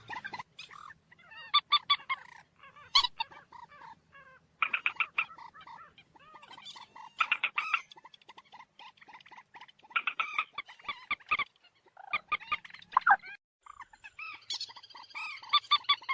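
Common moorhen calling: about seven short bursts of rapid, stuttering notes, one every second or two.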